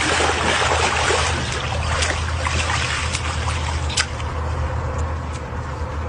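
Water trickling and sloshing over a steady low hum, with a sharp click about four seconds in.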